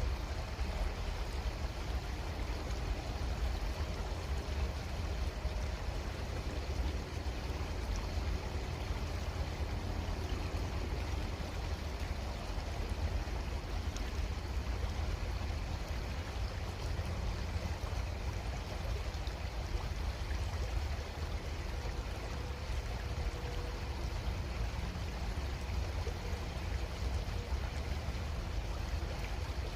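Creek water flowing steadily, an even rushing hiss with a constant low rumble underneath.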